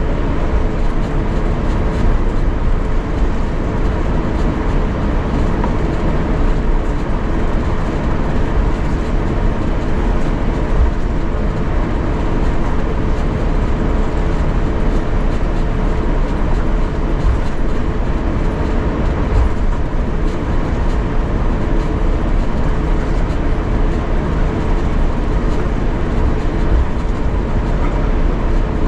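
Cabin noise inside an Airbus A350-900 on the ground before takeoff: a steady rumble with a constant hum from its Rolls-Royce Trent XWB engines, holding at one level throughout.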